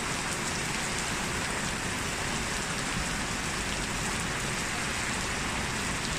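Steady heavy rain falling, an even dense patter of drops with no let-up.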